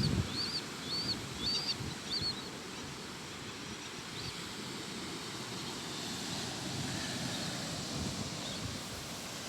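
A bird giving a quick series of about six short, high chirps in the first two seconds or so, over a steady low rush of wind and surf.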